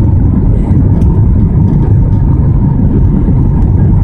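Steady loud rumble of an Airbus A320 heard inside the passenger cabin: engine and airflow noise with a faint steady whine above it.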